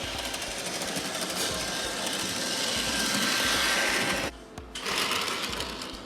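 Small electric motor of a toy Thomas the Tank Engine train whirring as it runs along its track. The sound cuts out suddenly about four seconds in, then returns briefly and fades.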